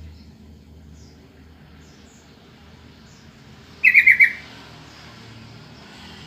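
Yellow-vented bulbul (trucukan) giving a short, quick burst of about four bubbly notes about four seconds in, the loudest sound here. Faint chirps from other birds and a low hum sit in the background.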